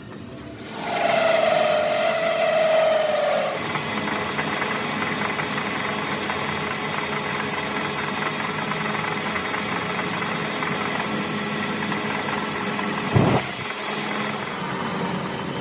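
An engine comes on about a second in, louder with a falling tone at first, then settles into a steady run, with one sharp knock near the end.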